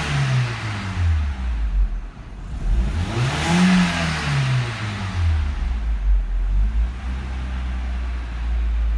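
Volkswagen Passat B5's 1.6-litre AHL four-cylinder petrol injection engine being revved. One rev is already dropping back at the start, a second rises and falls about three to five seconds in, and then the engine idles steadily.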